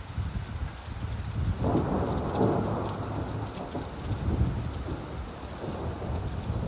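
Steady rainfall, with a long roll of thunder swelling up about two seconds in and fading slowly over the next few seconds.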